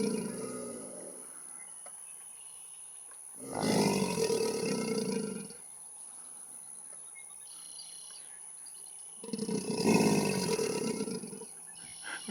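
American alligator bellowing in the spring mating season: low, loud bellows about two seconds long. One ends about a second in, and two more follow about six seconds apart.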